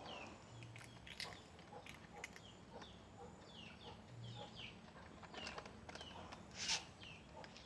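Small birds giving many short, high chirps that fall in pitch, with a brief scratchy noise near the end.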